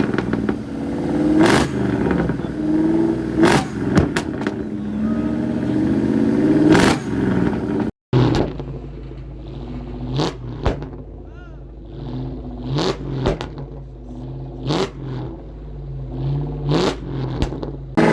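Car engines running and revving, their pitch rising and falling, with sharp cracks every second or two. The sound cuts out briefly about eight seconds in and comes back quieter, with a steady low engine hum under the cracks.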